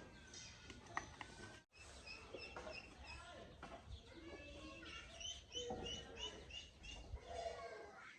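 Small birds chirping: many short, high notes repeating quickly, with a brief cut in the sound about two seconds in.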